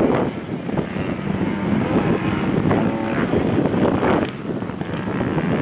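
Motocross motorcycle engines running and revving, with wind noise on the microphone.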